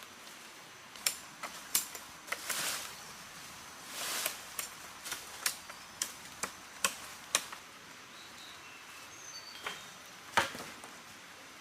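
Irregular sharp clicks and knocks, about a dozen spread over several seconds with the loudest near the end, and two short rustling swishes, over a steady faint hiss.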